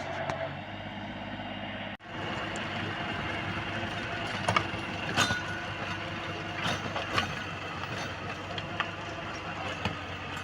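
New Holland Simba 30 mini tractor's diesel engine idling steadily, with scattered clicks and knocks over it. The sound cuts out abruptly for an instant about two seconds in.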